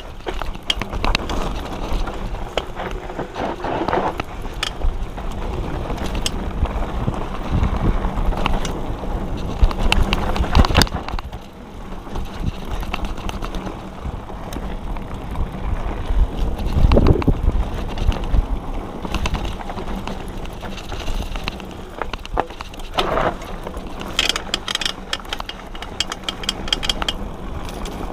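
Diamondback Line hardtail mountain bike ridden over a dirt trail: a steady low rumble from the tyres and the ride, with the chain and frame clattering and knocking over bumps, and a run of quick ticking near the end.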